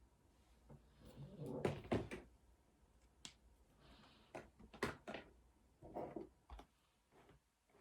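Scattered clicks, knocks and short rustles of small objects being picked up, set down and handled, loudest around two seconds in and again near five seconds.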